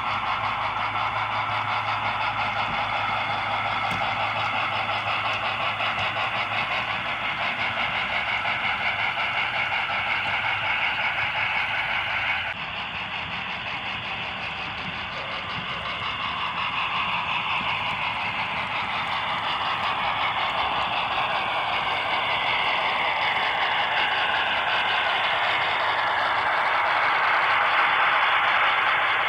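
Two model NSWGR AD60 Beyer-Garratt steam locomotives with Eureka Models DCC sound decoders running light engine: recorded steam-locomotive running sounds played through their small onboard speakers. The sound changes abruptly about twelve seconds in, and a few tones later fall slowly in pitch.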